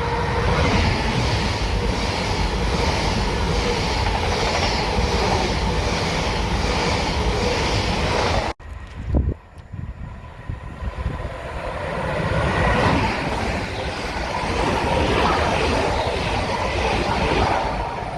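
A train passing close by, a heavy rumble with a regular clatter of wheels over the rail joints. The sound breaks off abruptly a little before halfway. After a brief quieter spell, a train's rumble builds up again and stays loud.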